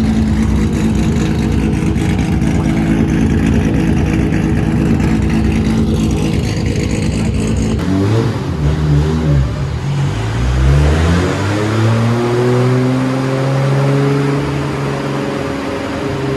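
A car engine running at a steady high speed; after a sudden cut about eight seconds in, an engine revs up in rising pitch, drops back, climbs again and then holds a steady high note.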